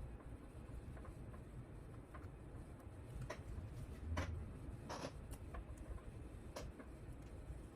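A few scattered light clicks and taps of small parts and cables being handled, about four over several seconds, faint against low room noise.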